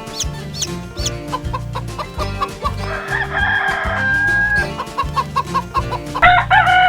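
A rooster crowing twice, about three seconds in and again near the end, each call a long drawn-out note, over background music with a steady beat.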